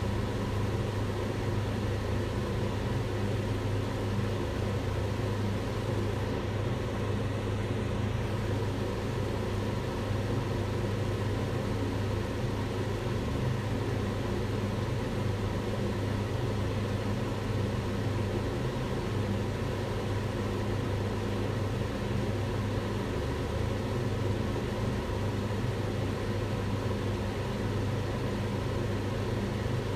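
Kitchen range hood fan running steadily: an even whooshing air noise over a constant low motor hum.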